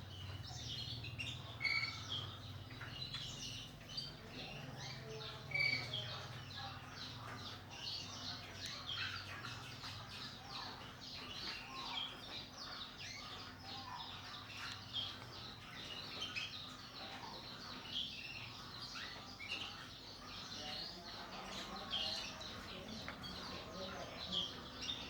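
Many caged canaries and black-throated canaries chirping and singing at once, a dense stream of short high chirps and trills, over a steady low hum.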